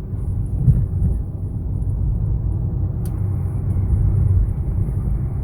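A low, steady outdoor rumble.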